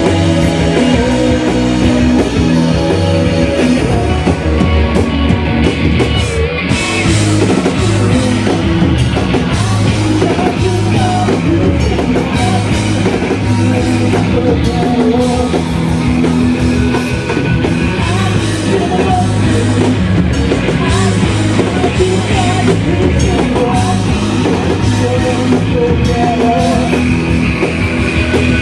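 Live shoegaze band playing loud and dense: distorted, wall-of-sound guitars over a rock drum kit, with vocals.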